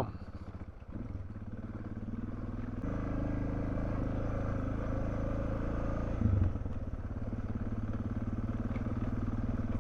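Suzuki DR650's single-cylinder engine running while riding. It grows louder and fuller about three seconds in, with a brief low thump a little after six seconds.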